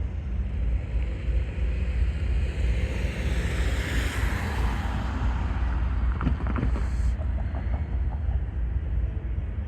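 Wind buffeting the microphone as a steady low rumble, with a road vehicle crossing the tracks whose hiss swells and fades about three to five seconds in.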